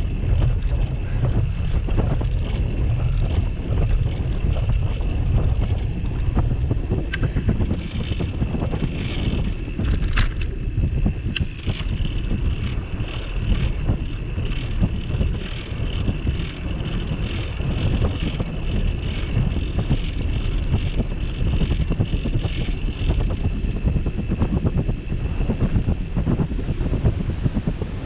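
Wind buffeting the microphone of a camera mounted on a moving bicycle, a heavy steady rumble. A high pulsing buzz rises over it about a quarter of the way in and fades out well before the end, and a few sharp clicks come near its start.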